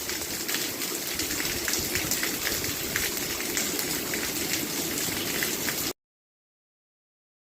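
Steady rain falling, with many separate drops pattering, that cuts off suddenly about six seconds in to dead silence.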